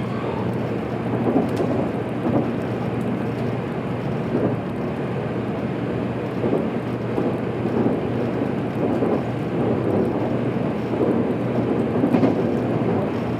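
JR Kyushu 783-series electric train running at speed: a steady rumble of wheels on rail, with irregular louder bumps and swells every second or two.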